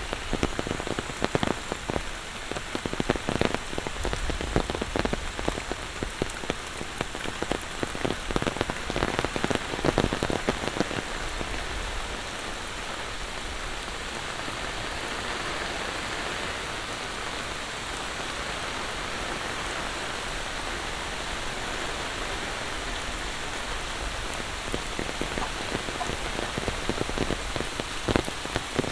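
Heavy monsoon rain falling. For about the first ten seconds there are many close, sharp drop hits; after that it settles into an even hiss.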